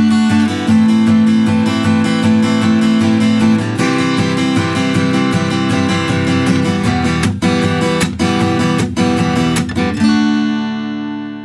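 Taylor Builder's Edition 324ce acoustic guitar strummed in steady alternating down- and up-strokes through a chord progression. In the E minor bars, muted percussive chuck strokes land on beats 2 and 4. A final E minor chord is left to ring and fades out near the end.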